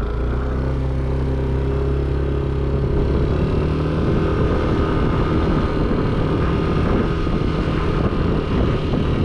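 Yamaha NMAX 155 scooter engine running as the bike gets under way, its hum picking up at the start. From about three seconds in, wind and road noise build over the engine.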